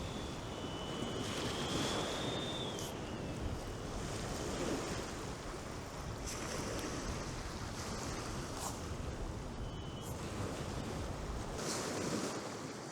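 Surf washing on the beach with strong wind buffeting the microphone, a steady rushing noise.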